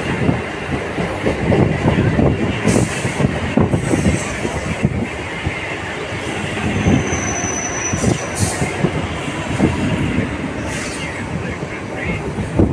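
Suburban EMU local train running, heard from its open doorway: a steady rumble of wheels clattering over the rails, with a thin high wheel squeal lasting about a second near the middle.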